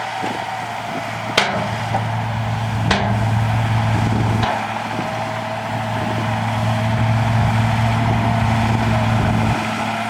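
A bulldozer's diesel engine working with a steady low drone and a whine above it, the engine note shifting about halfway through. Three sharp metallic clanks come in the first half.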